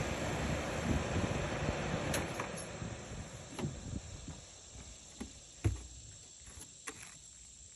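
Lennox Elite central air conditioner outdoor condenser unit shutting off: the compressor and fan hum fades away over about five seconds as the unit winds down. A few sharp ticks sound as it goes quiet.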